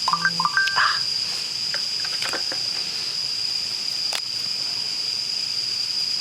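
Insects in the forest trilling steadily on one constant high note, with a brief stepped call of a few notes in the first second and a few sharp clicks.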